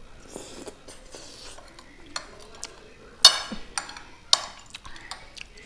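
Chopsticks knocking and scraping against a bowl of noodles: about five sharp clicks, the loudest about three seconds in.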